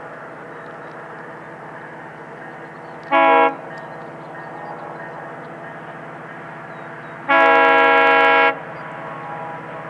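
GO Transit MP40PH-3C diesel locomotive sounding its multi-note air horn: a short blast about three seconds in, then a long blast of over a second near the end. This is the short-then-long close of the standard grade-crossing horn signal. A steady rumble of the passing diesel and train runs underneath.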